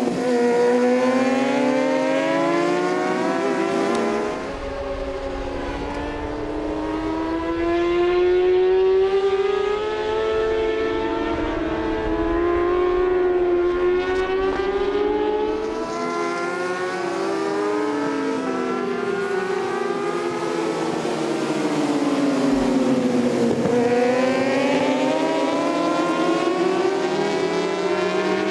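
Superbike racing motorcycles at high revs, several engines at once, their pitch falling and rising with throttle and gear changes. One deep dip about three-quarters of the way through is followed by a climb back up.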